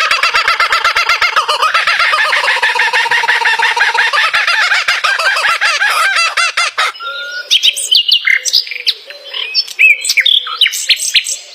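Birds calling: a dense, rapid run of repeated calls for about seven seconds, then an abrupt switch to scattered, varied chirps and whistles that slide up and down in pitch.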